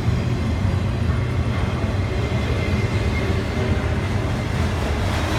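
Autorack freight train rolling by: a steady low rumble with even rolling noise and no horn.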